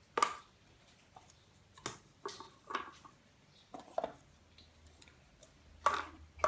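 Scattered light clicks and knocks, about seven in all at irregular intervals, with quiet between them.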